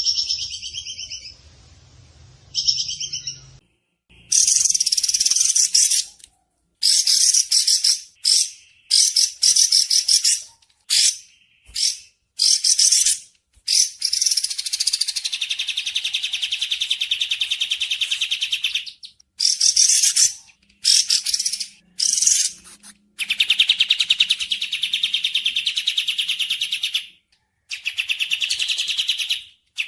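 Recorded bird song: fast, high-pitched chattering trills in repeated bursts of a second to several seconds, with abrupt gaps between them.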